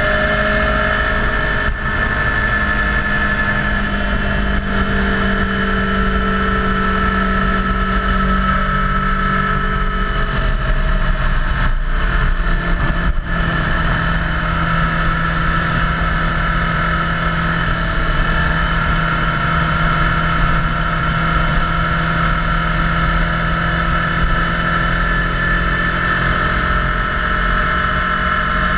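Motorcycle engine running at a steady cruise while riding, with low wind and road rumble. The engine note drops slightly about halfway through.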